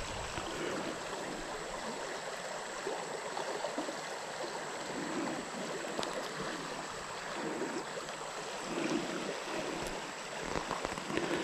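Creek water running steadily in a continuous even rush.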